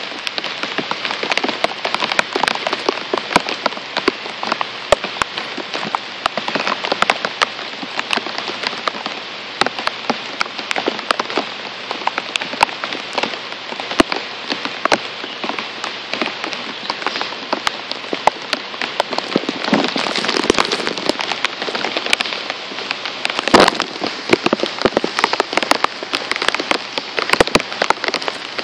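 Heavy rain shower: a steady hiss of falling rain with a dense run of sharp taps from single drops landing close to the microphone, and one heavier knock about 23 seconds in.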